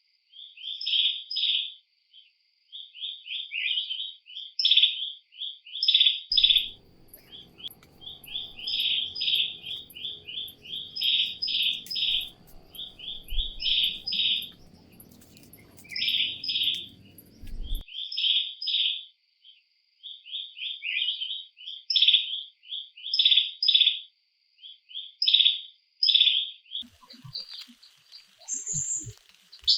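A bird singing short bursts of chirps over and over, about one burst a second, over a thin steady high tone.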